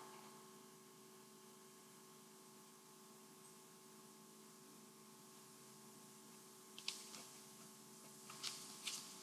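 Near silence: room tone with a faint steady electrical hum, and a few faint small clicks near the end.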